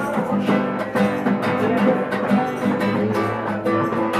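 Acoustic guitar strummed in a steady rhythm, playing on after the sung verse ends.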